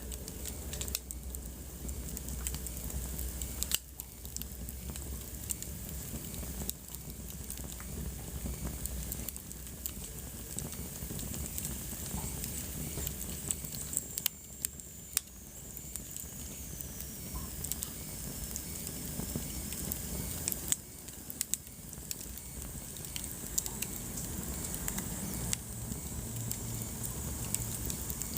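Wood fire burning in a fireplace, with a steady low rumble of flames and frequent irregular sharp crackles and pops. A faint high whistle slides downward near the middle.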